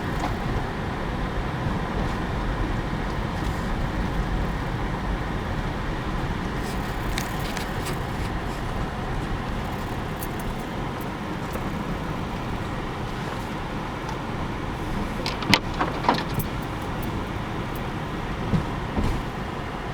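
Car driving slowly on an ice-covered road, heard from inside the cabin: a steady low rumble of engine and tyres. A few sharp clicks or knocks come about fifteen and a half seconds in and again near the end.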